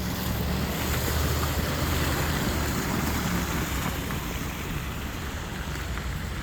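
Steady rushing noise of traffic on a snow-covered street, with wind buffeting the microphone; it swells over the first couple of seconds and then eases off slightly.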